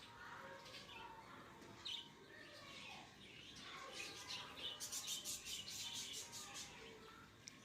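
Faint chirping of lovebirds in an aviary colony, with a quick run of sharp, high chirps about five seconds in.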